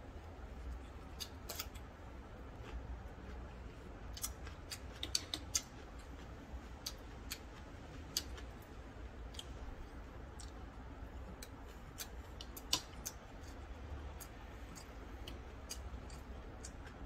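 Close-miked chewing of ramyeon noodles and gimbap: irregular wet mouth clicks and smacks, with a few louder clicks about five, eight and thirteen seconds in, over a low steady hum.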